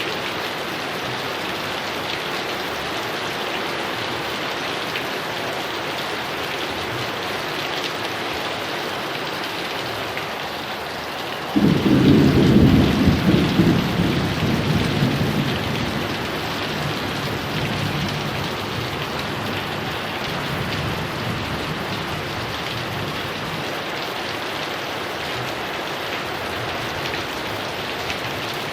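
Heavy rain falling steadily. About twelve seconds in, a sudden loud clap of thunder breaks out, then rumbles and fades away over roughly the next ten seconds.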